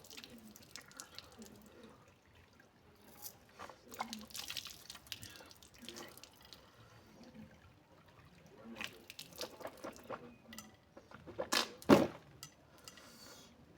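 Water from a tap splashing and dripping as a person washes their face with their hands, in irregular splashes, with one louder splash near the end.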